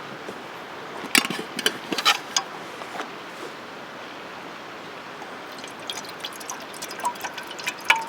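Campfire wood crackling: sharp pops in two clusters, about a second in and again near the end, over a steady hiss.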